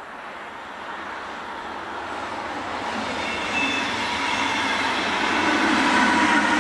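Zurich S-Bahn double-deck electric train running past, its rumble and rail noise growing steadily louder. From about halfway, several thin steady high tones ride on top, typical of wheel squeal.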